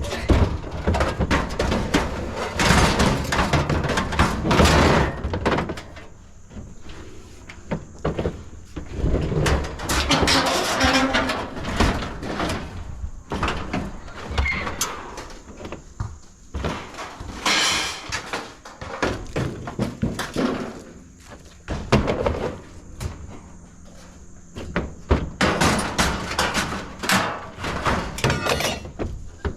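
Scrap metal being thrown and dropped into a pickup truck bed: repeated metallic clanks and bangs in clusters, with a quieter spell about three-quarters of the way through.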